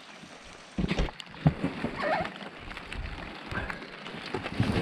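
Irregular knocks and clatter of scrap being handled over a steady hiss of rain, muffled and distorted by a waterlogged GoPro microphone.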